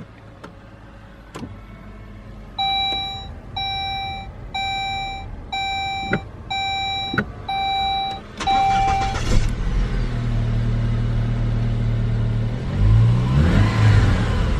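In a Saab 9-3 2.0t, the car's warning chime beeps seven times, about once a second. The starter then cranks briefly and the turbocharged four-cylinder engine catches and settles into a steady idle. Near the end it is revved up and back down once.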